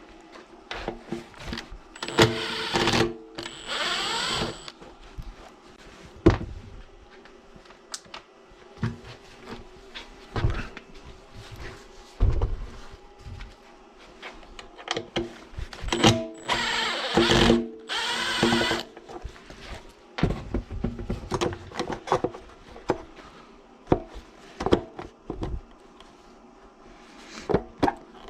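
Workshop sounds of tool work on metal parts: scattered clicks and knocks, with three short bursts of a power tool, the longest about two seconds, over faint steady background music.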